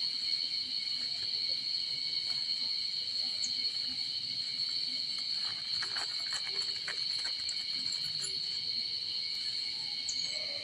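Steady, high-pitched insect chorus of crickets or cicadas, droning without a break, with a few faint clicks about halfway through.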